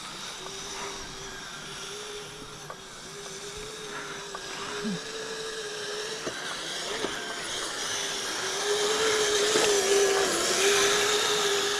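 Kyosho Blizzard RC tracked vehicle driving: its dual Traxxas 380 electric motors whine with a steady, slightly wavering tone over the hissing rattle of its metal tracks, getting louder in the last few seconds.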